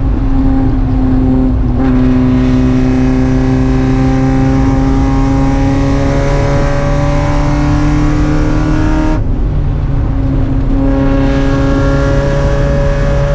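Spec Miata's four-cylinder engine pulling hard under racing throttle, its pitch climbing slowly over several seconds. About nine seconds in it lifts off briefly, then comes back on power.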